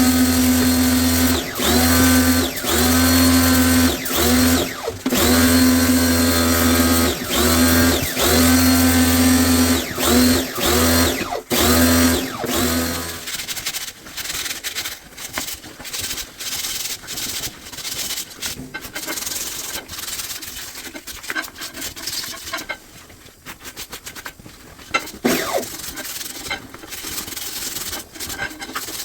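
Power drill-driver motor whirring in a run of short repeated bursts, sped up, as fasteners are worked on a washing machine. About halfway through it stops and gives way to quieter rubbing and scraping.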